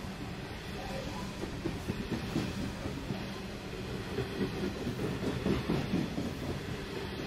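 Steel coal hopper wagons of a freight train rolling past at close range: a steady rumble of wheels on the rails with a rapid clickety-clack. The clatter is loudest from about two to six seconds in.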